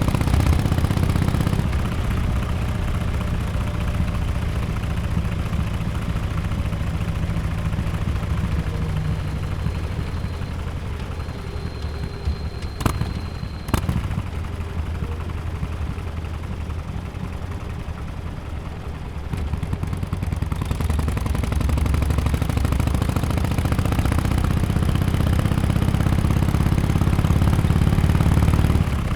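Exhaust of a 2017 Harley-Davidson XL1200X Forty-Eight's air-cooled V-twin through an aftermarket Bells Performance muffler while riding. The engine drops off after the first second or so and runs low with a lumpy beat, with two sharp clicks about halfway through. From about two-thirds of the way in it pulls up again, rising in pitch as the bike accelerates.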